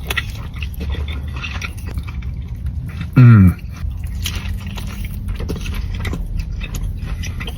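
A person biting and chewing steak, with many small mouth clicks over a steady low hum. About three seconds in there is a short, very loud low tone that falls in pitch.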